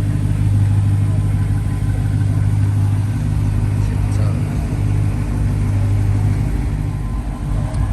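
A car engine idling steadily with a deep, even hum.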